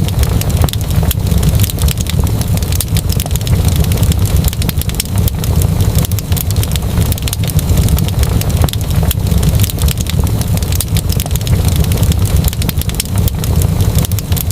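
Wood fire crackling, with frequent small pops and snaps over a steady low rumble of the flames.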